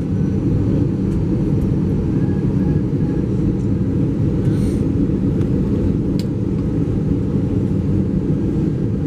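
Airbus A320 cabin noise heard from a passenger seat: a steady low rumble of the engines and airflow, with a faint click about six seconds in.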